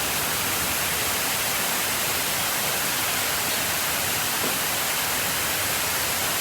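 Steady, even rushing noise with no rhythm or pitch, heaviest in the upper range.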